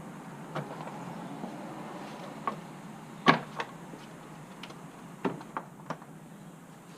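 A handful of separate knocks and clicks of objects being handled, the loudest about a third of the way in and a quick cluster of three near the end, over a steady low hum.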